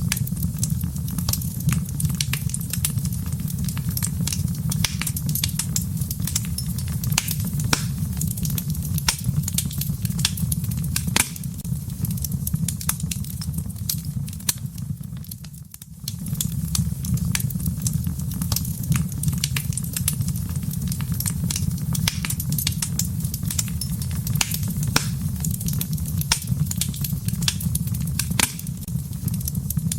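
Wood fire in a fireplace crackling, with many sharp pops and snaps over a steady low rumble. Both fade briefly about halfway through, then pick up again.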